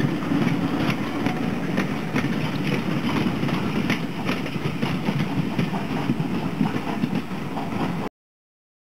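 Passenger coaches of a steam-hauled train rolling past: a steady low rumble with irregular clicks of wheels over rail joints. The sound cuts off abruptly about eight seconds in.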